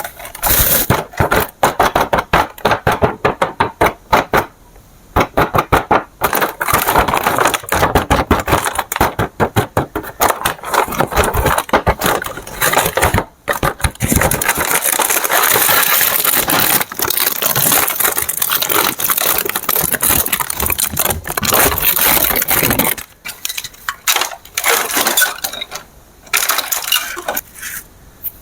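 Plastic crackling and clattering in rapid, irregular clusters, as of toy packaging and small plastic parts being handled, thinning out about 23 seconds in.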